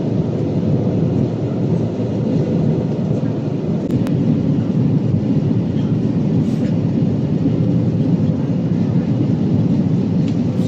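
Airbus A320 cabin noise in flight: steady engine and airflow noise, a low even rumble with a faint steady hum above it.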